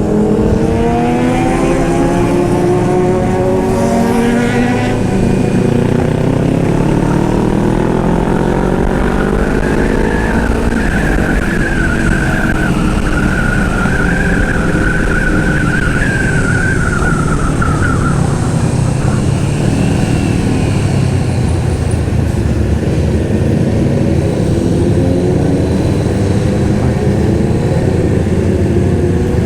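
Honda CBR500R's parallel-twin engine accelerating through the gears while riding. The engine pitch rises, drops back at each upshift and rises again, then settles into steady cruising.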